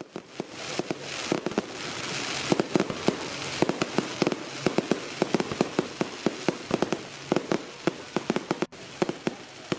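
Fireworks going off: a rapid run of sharp bangs and crackles, several a second, over a hiss that is strongest about two to three seconds in.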